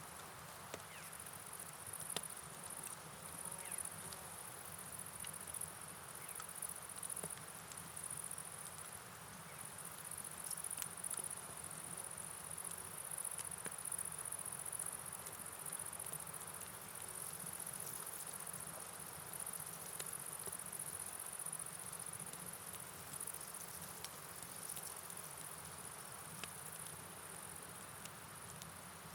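Night forest ambience: a steady high-pitched chirring of insects, like crickets, over an even hiss of rain and flowing water, with scattered sharp ticks of drops.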